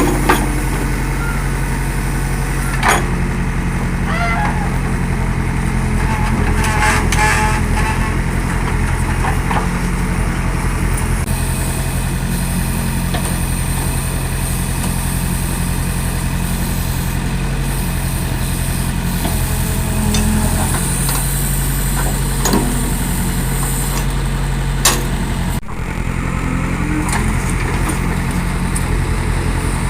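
Diesel engine of a Tata 315 JD backhoe loader running steadily while it loads soil into a tractor trolley, with a few sharp knocks.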